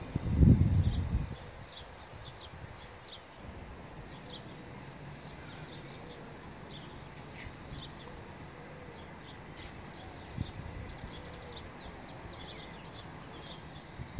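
Small birds chirping repeatedly over a steady low background hum, with a brief loud low rumble about half a second in.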